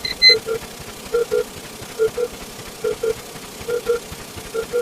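A short electronic double blip repeating about once every 0.85 s, six times, over a steady hiss.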